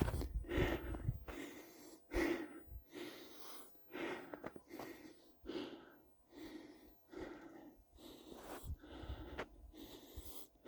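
A person breathing hard, a run of separate breaths about one a second, as from the effort of a steep uphill hike.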